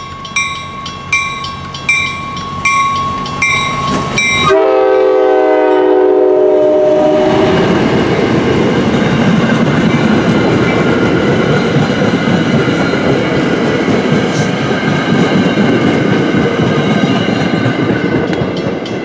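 A railroad crossing bell rings steadily. About four and a half seconds in, a commuter train's horn suddenly sounds a loud chord for about three seconds. The train then passes close by, its wheels rumbling and clattering over the rails, and the bell is heard again near the end.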